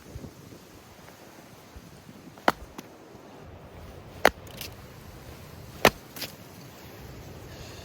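Firewood being split: three sharp, hard strikes about a second and a half apart, each followed by a lighter click, over a steady wind hiss.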